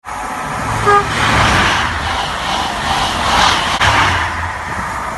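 A train moving through the station under heavy wind noise buffeting the microphone, with a low rumble that swells twice. A brief pitched beep sounds just before one second in.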